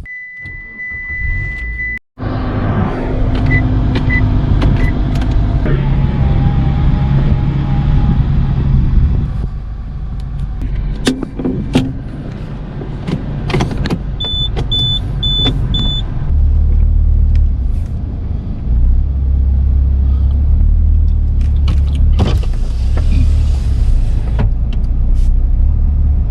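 Mitsubishi Fortis car running, with a steady beep for the first two seconds, four short beeps about halfway through, and the low engine and road rumble growing stronger in the second half as it drives.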